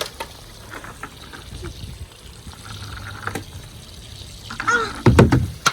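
Water trickling and running steadily, with a few small knocks. Near the end comes a short child's voice and a sharp knock.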